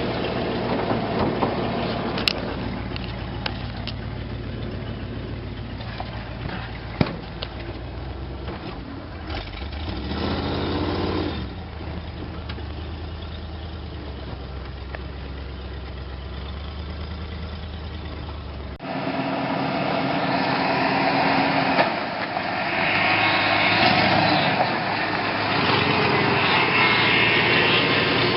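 The truck's 302 cubic-inch (5.0 L) V8 runs steadily at low revs, with scattered clicks and a brief rise about ten seconds in. About nineteen seconds in, the sound changes abruptly to louder, higher-pitched engine noise.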